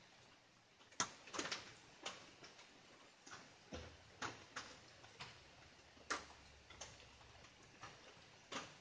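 Light rain: single drops tapping irregularly, about two a second, over a faint hiss.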